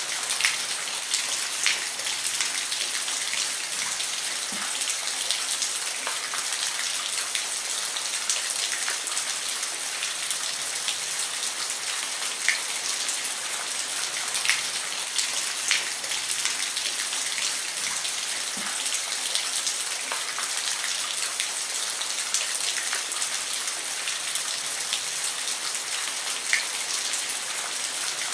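Steady rain falling on a roof, a dense even hiss with scattered louder drops landing every second or two.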